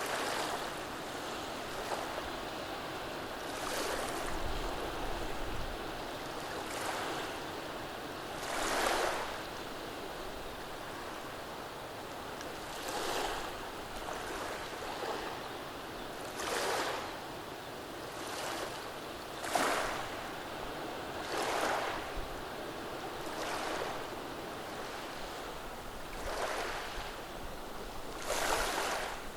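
Small, gentle waves washing over a beach of rounded pebbles, over a steady hiss of water. About every two seconds a brief swash surges and fades, with the loudest ones a little before halfway and near the end.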